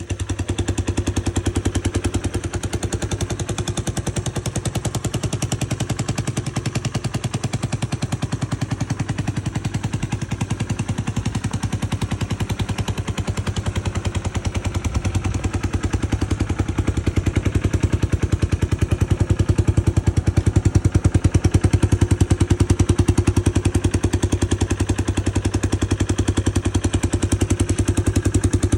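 Honda CT110 Hunter Cub's single-cylinder four-stroke engine idling with an even, rapid run of exhaust pulses, getting a little louder past the middle.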